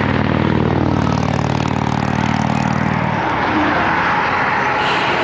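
A motor vehicle's engine passing close by, its pitch dropping as it goes past and fading out about three seconds in, over steady wind noise on the microphone.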